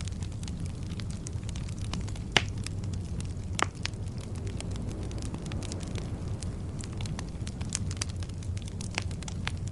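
Wood fire burning in a fireplace: a steady low rumble of flames with constant crackling of the logs and two louder pops, about two and a half seconds in and again about a second later.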